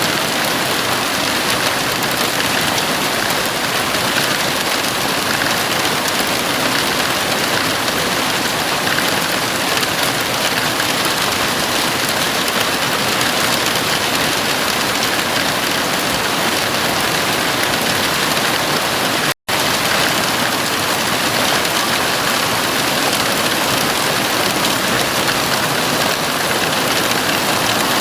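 Heavy rain falling steadily on a house roof, a dense even hiss. The sound cuts out for an instant about two-thirds of the way through.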